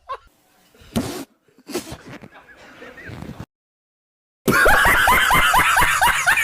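Short, faint meme sound clips, then a second of dead silence, then a loud burst of quick, high-pitched laughter, about five rising bursts a second, over the last two seconds.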